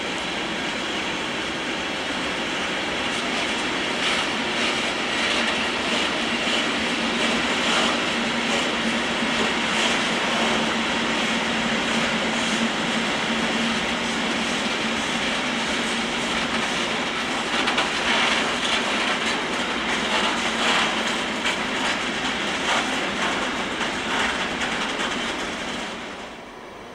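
A freight train of open gondola wagons rolling past, its wheels clicking over the rail joints over a steady rumble, with a held humming tone in the middle stretch. The sound drops away sharply just before the end.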